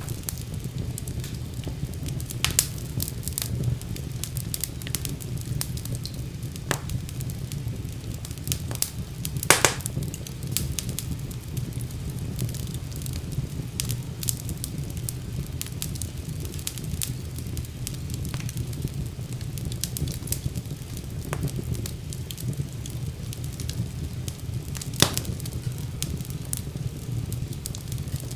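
Wood fire burning in a fireplace: a steady low rumble of flames with scattered crackles and a few sharp pops, the loudest about 9 and 25 seconds in.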